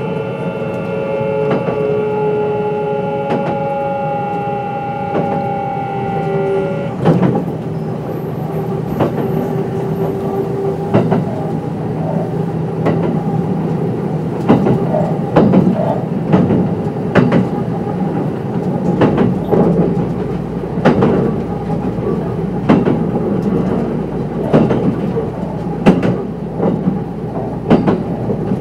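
Kintetsu 22600 series train running, with the whine of its Mitsubishi IGBT-VVVF inverter and traction motors: several steady tones, some sliding slightly lower. About seven seconds in, the inverter tones stop. The train runs on with a rumble and wheels clicking over rail joints, often in pairs.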